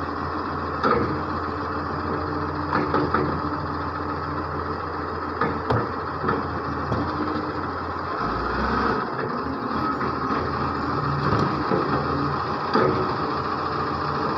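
Garbage truck's engine running steadily, with several sharp clanks scattered through it and a brief low swell in the engine about halfway through.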